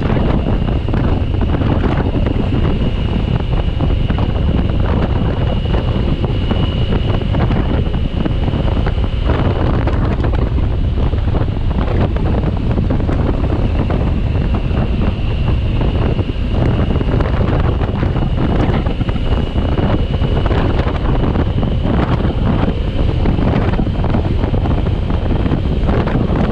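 Wind buffeting the microphone of a motorcycle-mounted camera while riding at speed: a steady, loud low rumble of rushing air, with a faint steady high whine over it.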